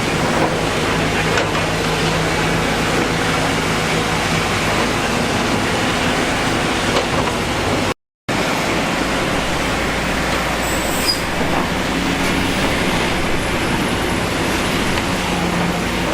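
Diesel engine of heavy construction machinery running steadily under load, a constant hum with rumbling noise, cut off by a brief gap of silence about eight seconds in before it resumes.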